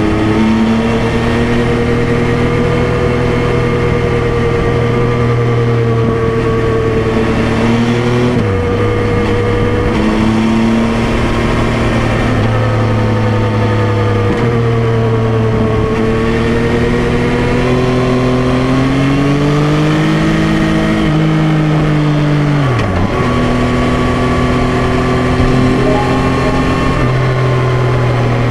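Yamaha Tracer 9's 890 cc three-cylinder engine pulling under way at moderate revs, its pitch drifting slowly up and down. Twice the pitch drops sharply and picks up again, about a third of the way through and near the end, as with gear changes.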